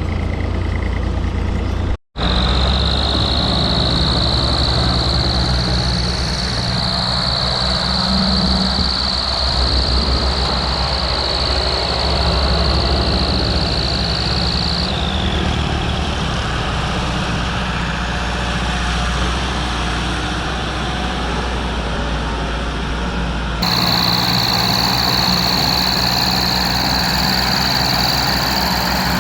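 Tractor diesel engine running steadily under load, with a steady high whine over it. There is a brief break about two seconds in and an abrupt change near the end.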